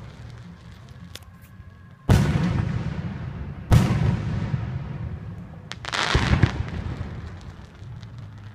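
Aerial fireworks shells bursting close by: three loud booms, about two, three and a half and six seconds in, each trailing off in a long rolling rumble.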